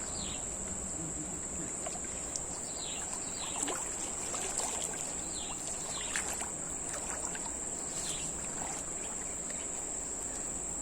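Steady, high-pitched drone of an insect chorus, with faint scattered chirps and ticks.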